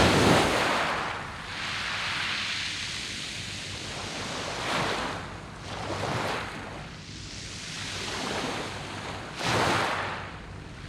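Sea waves breaking and washing on a pebble beach, the surf swelling and ebbing in surges: strongest right at the start and again about nine and a half seconds in, with smaller ones around five and six seconds.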